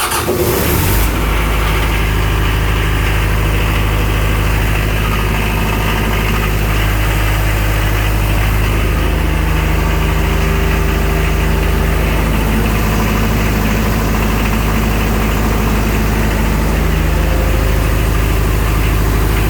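Fire pump engine, on a newly replaced battery after the old one went flat, starting up: a brief burst of cranking in the first second, then the engine catches and runs steadily. It is running normally.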